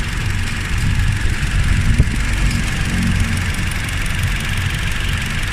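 Petrol Toyota Innova engine idling steadily with no misfire, its cylinders firing evenly after the intake and injectors were cleaned. A single click about two seconds in.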